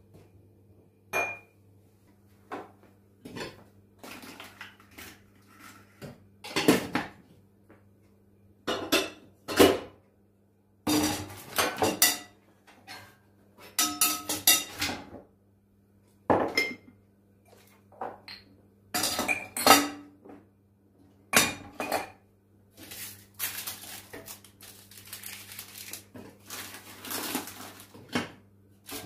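Dishes and cutlery being handled, with many separate clinks and clatters at irregular intervals over a faint steady low hum.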